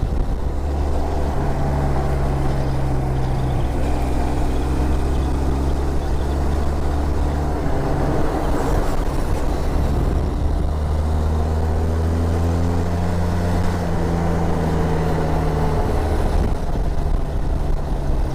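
Motorcycle engine running under way, its pitch holding steady, then rising and falling gently as the rider takes corners on a winding road.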